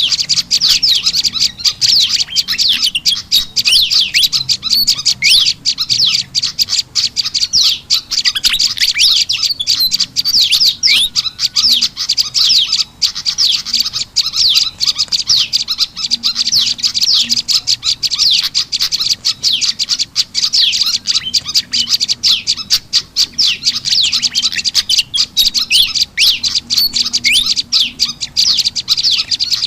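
Bird-lure recording of small songbirds, prenjak lumut calls mixed with the noisy chattering calls of a kipasan (fantail): dense, rapid high chirps with no break, played to draw wild birds in.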